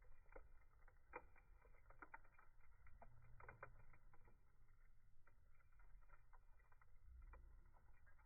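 Faint crackling of a wood campfire: irregular small pops and snaps, thickest in the first few seconds, over a low rumble.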